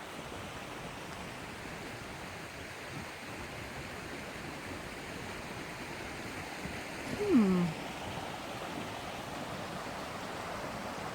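Steady outdoor hiss of wind moving through the trees. About seven seconds in, a brief voice-like sound falls in pitch.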